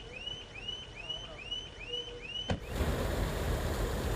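A rapid, even series of short arched chirps, about two and a half a second. About two and a half seconds in, a click cuts it off and a louder steady low rumble of a train standing in a rail yard takes over.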